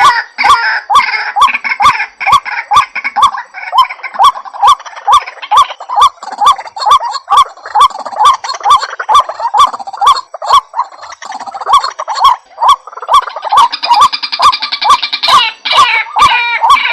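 White-breasted waterhen (ruak-ruak) calling over and over, a harsh pitched note repeated steadily about two to three times a second, each with a sharp click.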